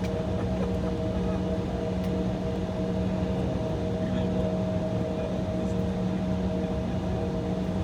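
Steady cabin drone inside an Embraer E175 holding on the taxiway, its GE CF34 engines idling along with the air-conditioning: a constant rumbling hum with a few fixed tones over it.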